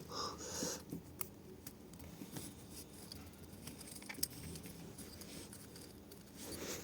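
Faint, scattered light metallic clicks and scrapes of a piston ring being worked onto a GX200-clone piston by hand, with one sharper click about four seconds in.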